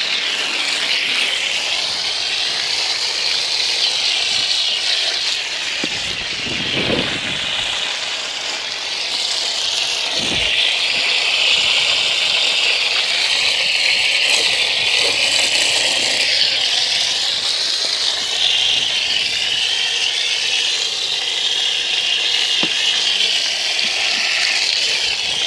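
Garden hose spraying water at ordinary pressure onto a dirt bike, a steady hiss as it rinses off foam soap and loosened mud.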